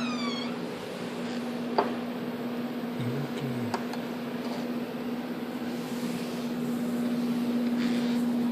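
A cat meows once, briefly, right at the start, over a steady electrical-sounding hum, with a single click about two seconds in.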